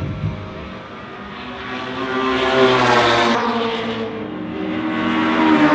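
Engines of historic racing cars passing on the circuit. Several engine notes overlap and shift in pitch, with the sound swelling to its loudest about three seconds in and again near the end.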